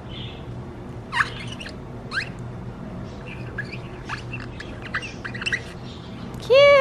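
Bird chirping and squawking: short, scattered rising calls, then a loud held note about a second long near the end.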